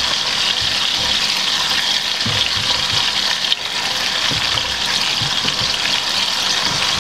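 Chicken pieces, shallots, garlic and sun-dried tomatoes sizzling in hot oil in a pan: a steady frying hiss.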